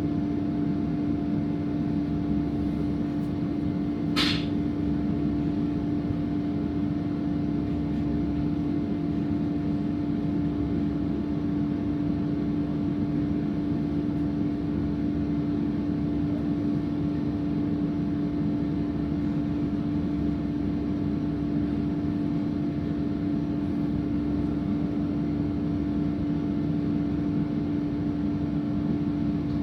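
Electric regional train running, heard on board: a steady rolling rumble with a constant hum, and a single click about four seconds in.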